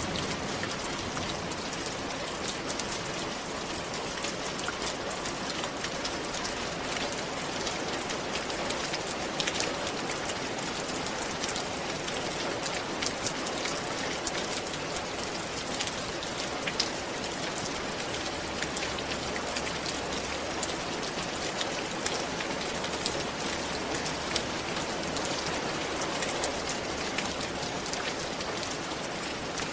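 Steady rain falling on a roof: an even hiss of rain with many sharp individual drop ticks scattered throughout.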